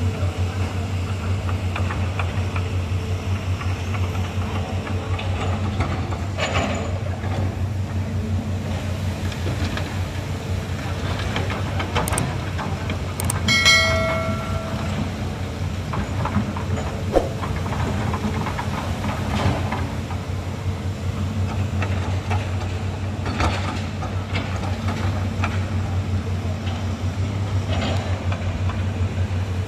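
Heavy diesel engine of earth-moving machinery running steadily, a low pulsing drone. Scattered clicks and a brief high tone come about halfway through.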